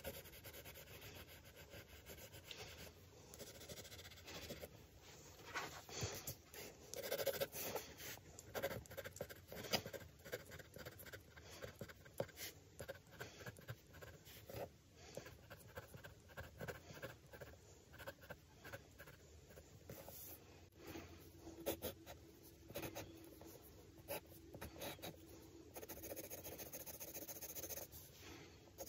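Faint, irregular scratching of a drawing tool on paper, in short repeated strokes that are busiest in the first third.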